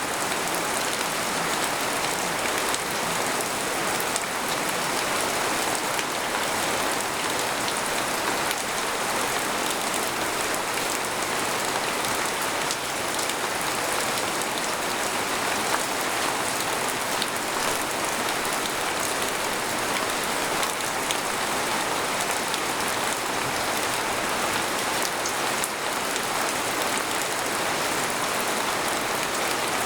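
Steady rain falling on a tent, heard from inside, a dense even hiss with many small drop ticks.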